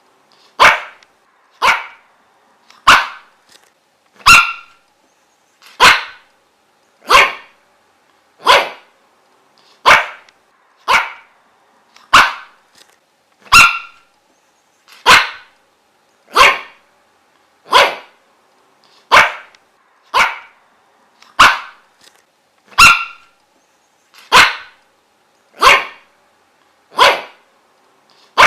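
A dog barking single loud barks, one about every second and a half in a steady, even rhythm.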